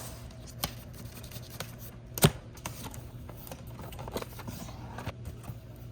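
Packaging being handled while a box is opened: scattered scrapes, rustles and small clicks, with one sharp knock about two seconds in, over a steady low hum.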